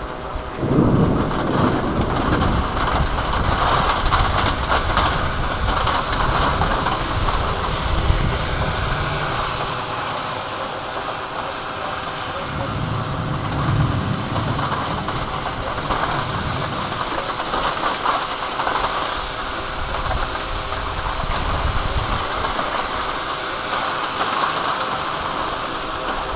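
Heavy rain pouring down steadily, with low rumbles swelling about a second in and again around twelve to fifteen seconds in.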